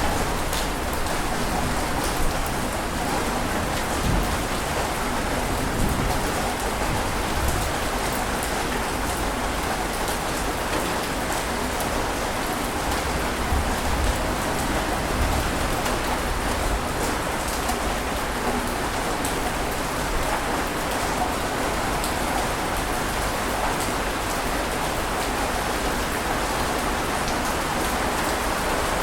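Steady rain falling: an even, dense hiss of water with many fine drop ticks, holding a constant level.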